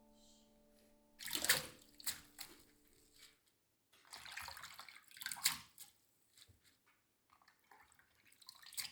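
Water splashing into a sink from a tap in several short bursts, as something is rinsed.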